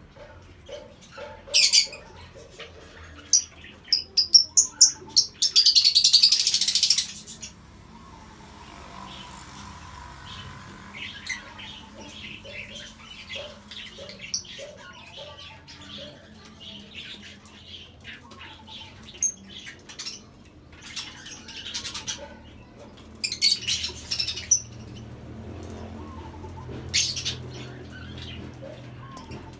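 Lovebirds chirping in bursts of sharp, high-pitched calls, loudest around five to seven seconds in and again near the end.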